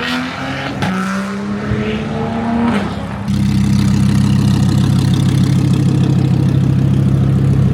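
A car engine accelerating twice, its note climbing each time. About three seconds in a much louder, deep, steady engine note takes over, pulsing fast, like a loud exhaust held at constant revs close by.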